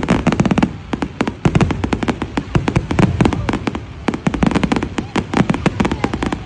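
A fireworks display going off in a rapid, unbroken run of sharp bangs and crackles, several a second.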